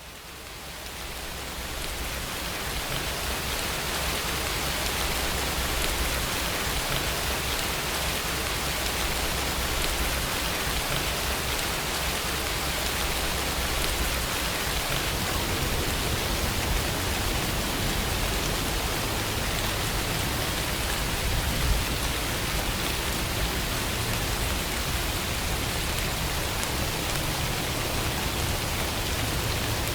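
Steady rainfall, an even hiss of rain, fading in from silence over the first few seconds.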